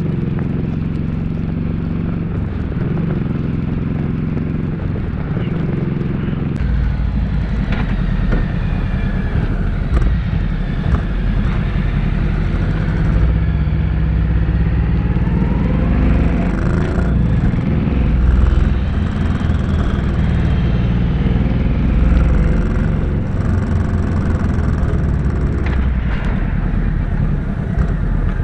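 Motorcycle engine running while riding along the road, its note rising and falling in pitch through the middle of the stretch.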